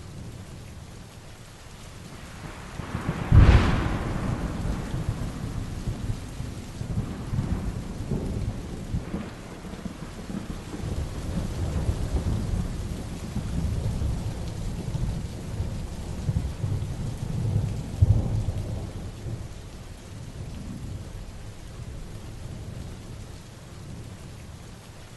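Heavy rain falling steadily, with a sharp thunderclap about three seconds in that trails into a long low rumble, which swells again to a second loud peak about two-thirds of the way through.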